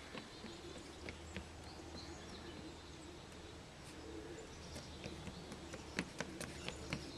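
Faint bird calls outdoors, with scattered light clicks and taps that come more often near the end.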